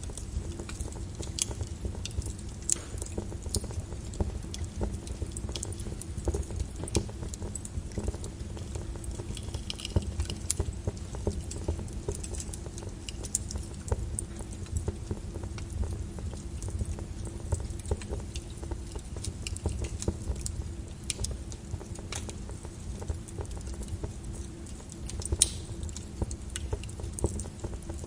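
Flowing lava crackling, with many irregular sharp clicks over a steady low rumble.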